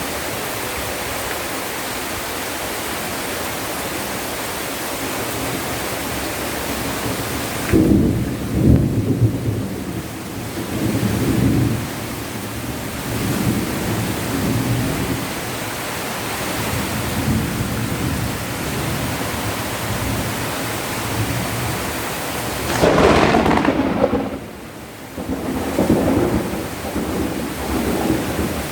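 Heavy rain pouring steadily, with rumbles of thunder rolling in about eight seconds in and again, loudest, about 23 seconds in.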